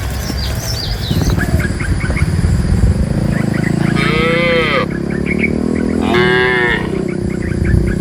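Cattle mooing: a long low moo, with two shorter, higher calls that rise and fall about four and six seconds in. Birds chirp faintly throughout.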